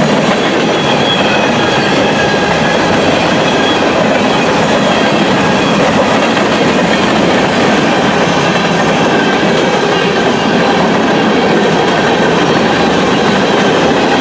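Cars of a southbound rock train rolling past at track speed: a steady loud rumble and clatter of wheels on rail, with faint high tones over it.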